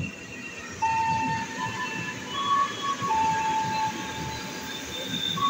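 Tokyu 8500 electric commuter train running in alongside the platform: a rumble of wheels on rail that gets louder about a second in, with steady high-pitched whines that step from one pitch to another.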